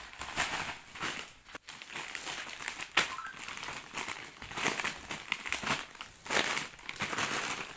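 Irregular crinkling and rustling of something being handled, with one sharp click about three seconds in.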